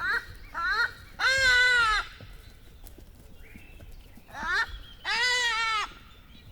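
A goat bleating: short bleats followed by two long, drawn-out ones, the first about a second in and the second near the end.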